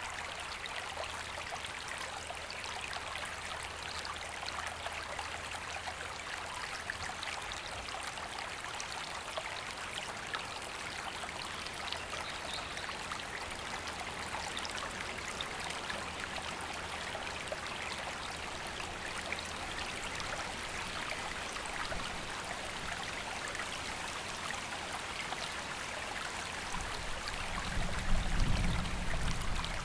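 River water flowing steadily over stones: a constant, even rush. Near the end, a brief low rumble rises louder over the flow.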